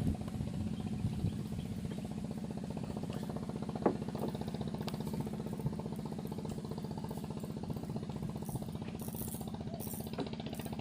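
Small boat engine running steadily with a fast, even pulsing beat.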